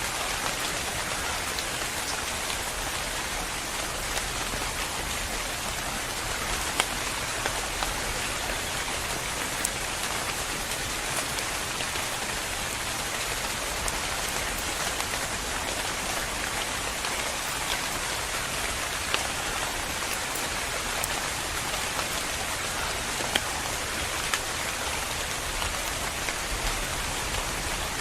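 Steady rainfall, a continuous hiss with scattered individual drops ticking sharply on a surface.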